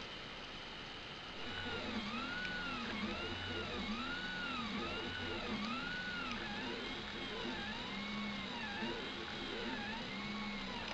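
Stepper motors of a Prusa i3-style 3D printer whining as the printer moves. About a second and a half in, the pitch starts rising and falling over and over, once with each accelerating and slowing move.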